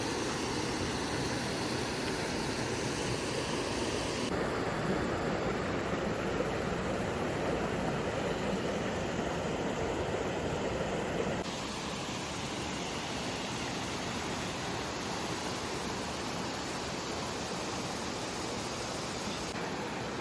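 Steady rush of flowing water from a rainforest waterfall and its stream. The sound changes character abruptly about four seconds in and again about eleven seconds in.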